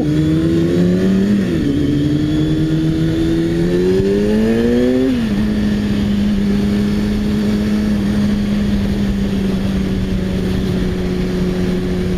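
Motorcycle engine heard from the rider's seat, accelerating hard with its pitch climbing, dropping at an upshift about a second and a half in, climbing again and dropping at a second upshift about five seconds in, then holding a steady cruise. A constant rush of wind noise runs under it.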